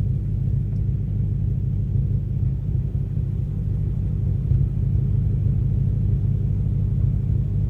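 Straight-piped BMW 540i V8 idling with a steady, even low rumble.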